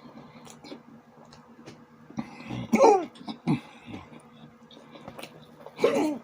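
A man coughing and clearing his throat between mouthfuls: a loud burst about two seconds in, a shorter one soon after, and another near the end, each falling in pitch.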